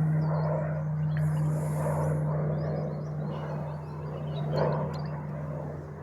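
Aircraft engine droning overhead with a steady low hum, slowly fading as it moves away.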